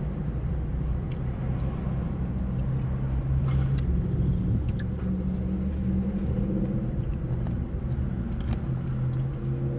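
Steady low engine-like hum, as of an idling car, with a few faint clicks and chewing sounds of someone eating.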